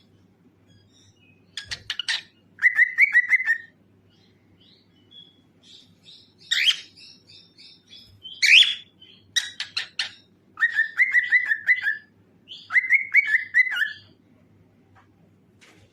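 Cockatiel chirping and whistling in bursts: sharp rising calls and quick trilled runs, broken by short pauses.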